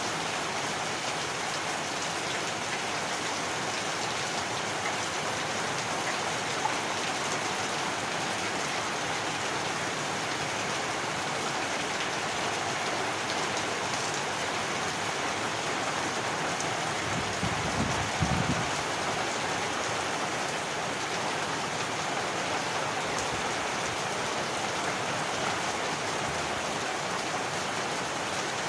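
Heavy rain falling steadily on a surface. A short low rumble rises about two-thirds of the way through.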